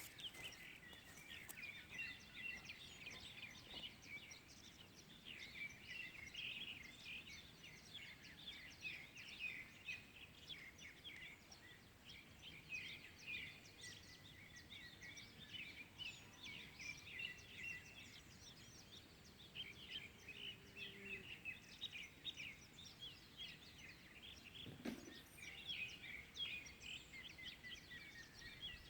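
Faint dawn chorus of many small birds chirping and twittering in quick, overlapping calls, with a single brief low thud near the end.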